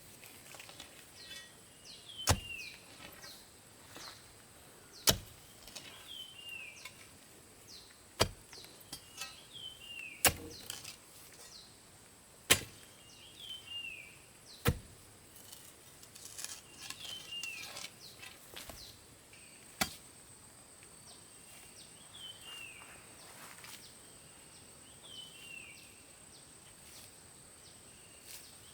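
Sharp chopping strikes about every two to three seconds, stopping about two-thirds of the way through. Behind them a bird repeats a short falling chirp, and a steady high insect buzz grows louder near the end.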